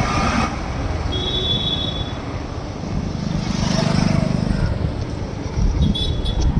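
Steady road-vehicle travel noise, a low rumble with wind buffeting the microphone, and a brief high tone about a second in.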